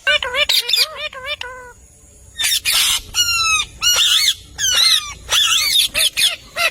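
Pet parrot calling: a quick run of short chirps, a brief pause, then louder harsh squawks and chirps about twice a second.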